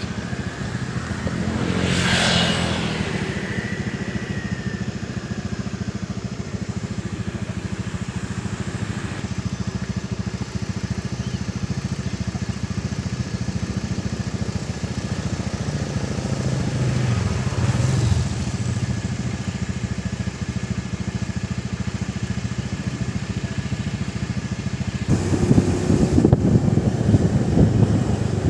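A small engine running steadily, with brief sharp sounds about two seconds in and again past the middle. Near the end it grows louder and rougher.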